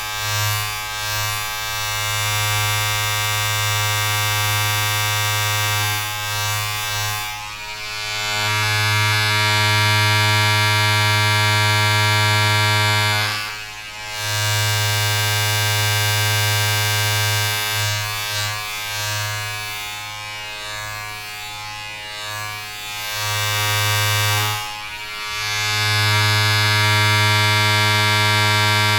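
A steady, buzzy drone with many overtones, dipping briefly about 14 seconds and 25 seconds in.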